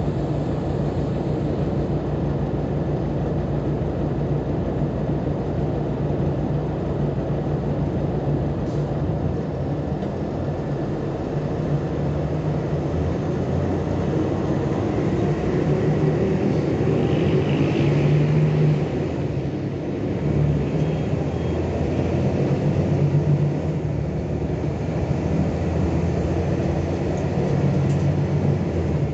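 Volkswagen Volksbus 18-280 OT LE rear-engined diesel city bus running under way, a steady engine rumble. Its note swells about two-thirds of the way through, dips briefly, then picks up again as the bus pulls.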